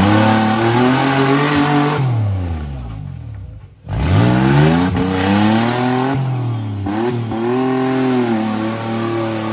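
Competition off-road 4x4's engine revving hard, the revs rising and dropping again and again as the driver works it at an obstacle. About two seconds in the revs fall away and fade. Near four seconds the engine cuts back in sharply, revving up and down several more times.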